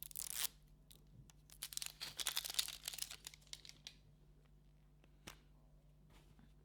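Packaging being torn open and crinkled by hand: a short rip at the start, then a longer stretch of crackling from about 1.5 to 4 seconds, and a single click a little after 5 seconds.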